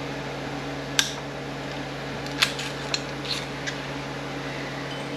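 A snap ring being worked off an Aisin Warner A340F automatic transmission with hand tools: a handful of sharp metallic clicks, the loudest about a second in and another about two and a half seconds in, over a steady low hum.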